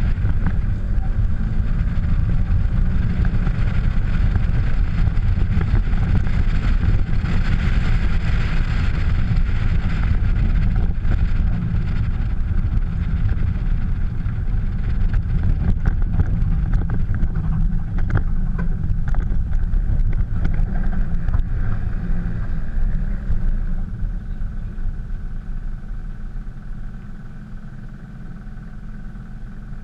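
Mazda RX-7's rotary engine and exhaust running as the car is driven along. The sound gets quieter over the last few seconds as the car slows down.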